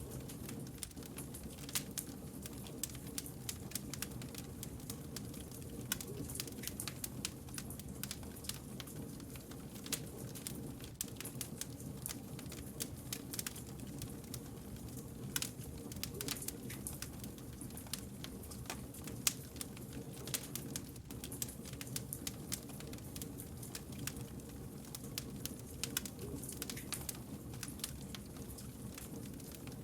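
Wood campfire crackling: frequent sharp snaps and pops at irregular intervals over a steady low rush from the burning logs.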